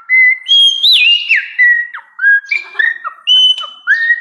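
A person whistling an imitation of a sabiá (thrush) song: a run of clear whistled phrases, the notes sliding up and down, with short gaps between them.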